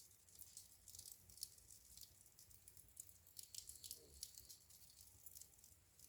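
Fire in a fireplace crackling faintly, with many small, irregular snaps and pops.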